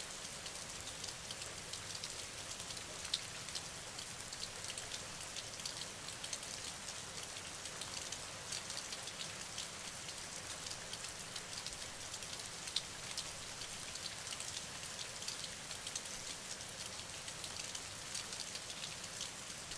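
Steady rain falling: a soft even hiss full of tiny drop ticks, with a couple of louder single drips, one about three seconds in and one near thirteen seconds.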